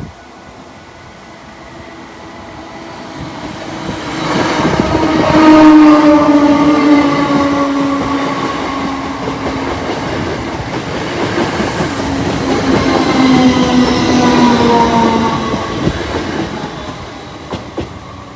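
A Class 321 electric multiple unit passing over the level crossing: it builds up, is loudest about six seconds in and again around thirteen seconds, then fades away. Through the pass there is a whine that slowly falls in pitch, with wheels clattering over the rail joints.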